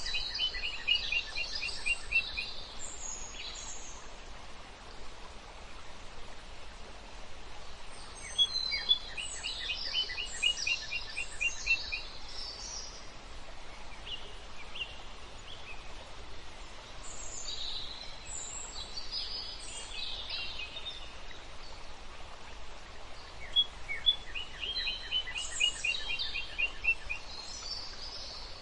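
Small songbirds chirping in bouts about every eight seconds, each bout a fast run of evenly spaced notes mixed with higher chirps, over a steady background hiss.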